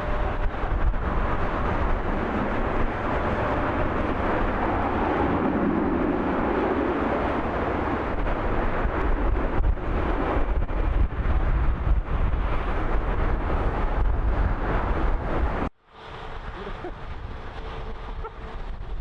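Loud, steady jet engine noise of a passing airliner, with wind buffeting the microphone. The sound cuts off abruptly near the end, leaving a quieter background with a faint steady hum.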